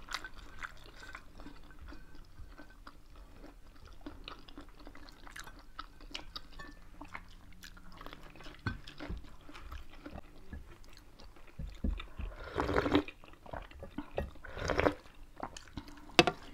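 Close-up mouth sounds of two people eating rice and pork by hand: steady chewing with many small wet clicks and smacks, and a few louder bites late on.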